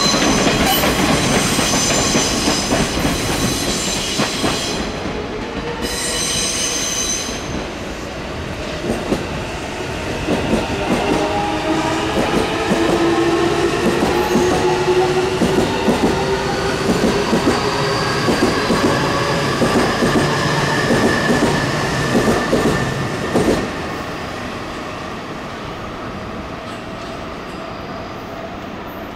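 JNR 583 series sleeper electric train running slowly through yard tracks: wheels rumbling and clattering over the rails, with a high wheel squeal in the first several seconds and slowly sliding tones in the middle. The loud running sound drops off suddenly about 23 seconds in, leaving a quieter rumble.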